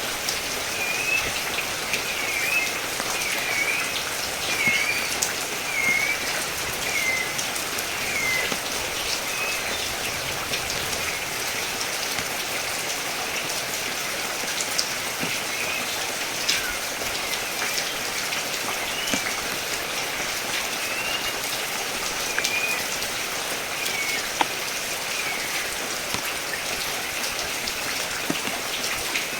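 Steady rain falling and pattering on surfaces, with scattered drops ticking close by. A bird calls in a run of short chirps through the first third, with a few more calls later.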